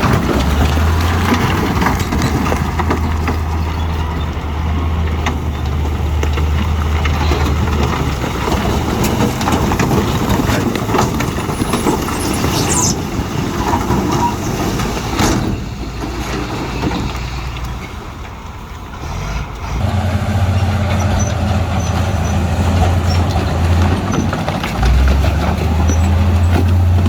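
Heavy diesel earthmoving machinery running under load, its low engine drone overlaid with a steady rattle and scrape of rock and metal. The engine drone drops away for a few seconds past the middle, then comes back.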